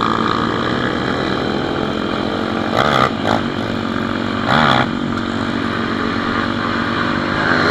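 Pit bike engine running steadily, with two brief louder bursts about three and four and a half seconds in.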